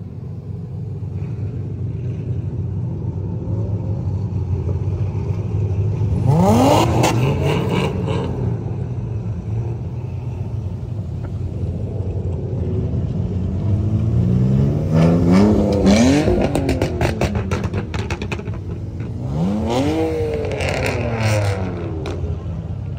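Drift cars' engines revving hard three times, about six, fifteen and twenty seconds in, the pitch climbing each time and then dropping back, over a steady rumble of running engines.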